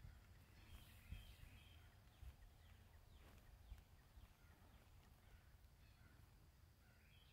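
Near silence outdoors: a few faint bird chirps, about a second in and again near the end, over a low uneven rumble that fades after the first second or two.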